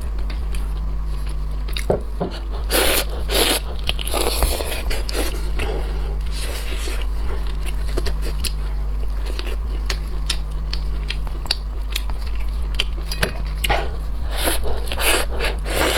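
A person biting and chewing seafood close to the microphone, with many short crunches and clicks, over a steady low hum.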